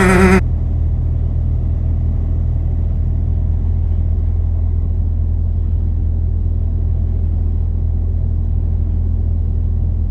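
The tail of a song cuts off just at the start. A steady low rumble follows and holds even for the rest of the time.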